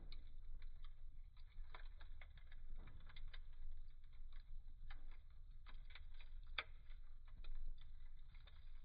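Wood fire burning in a fireplace, the logs crackling: irregular sharp snaps and pops over a low steady rumble, with one louder crack about six and a half seconds in.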